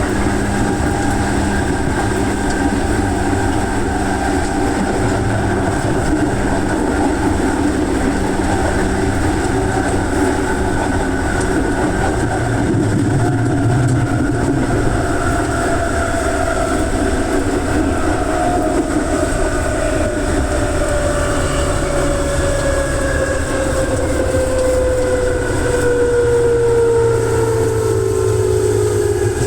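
Running noise inside an electric commuter train, with a motor whine that falls steadily in pitch through the second half as the train slows.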